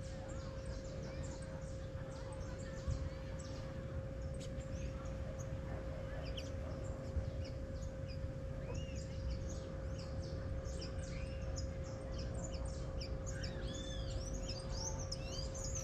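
Many small birds chirping and twittering, with short calls overlapping throughout, over a low rumble of wind and a faint steady hum.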